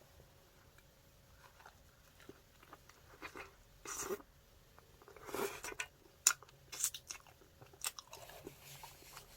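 Close-up biting and chewing of a fried chicken burger, with crunching. It begins softly, and from about four seconds in comes a run of sharp, crisp crunches.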